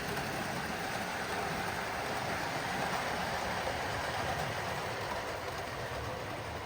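A train running past, a steady noise that holds even throughout with no clear beat.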